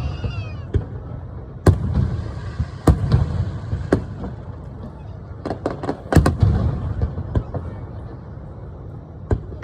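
Aerial fireworks shells bursting: a string of sharp bangs at irregular intervals, several in quick succession about six seconds in, over a continuous low rumble of booms.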